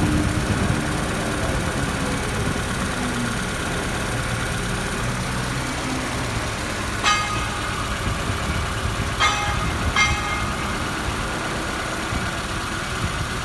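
Toyota 5E-FE 1.5-litre inline-four petrol engine running steadily at idle. Three brief high-pitched squeaks come about two-thirds of the way through.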